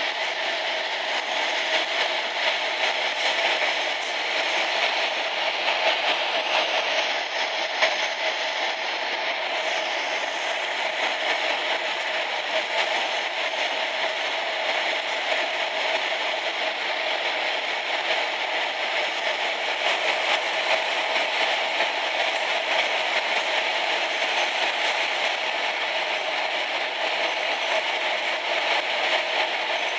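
A train running through a rail tunnel, heard from on board: a steady, even noise with no break or change.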